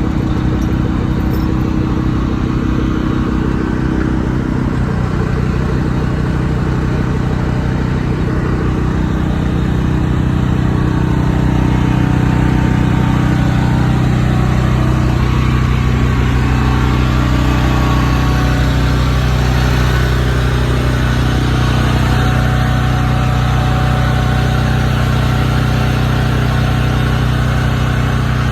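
A large truck engine running steadily, growing a little louder about ten seconds in.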